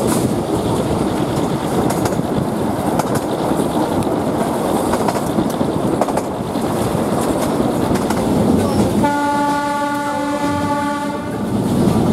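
Narrow-gauge passenger train running, with steady wheel and rail noise heard through an open carriage window. About nine seconds in, the locomotive's horn sounds one steady blast of about two seconds.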